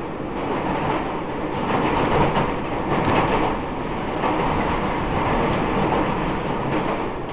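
Taiwan Railways EMU800 electric commuter train running, heard from inside the car: a dense rumble of wheels on rail and car-body noise. It grows louder over the first couple of seconds, then holds steady.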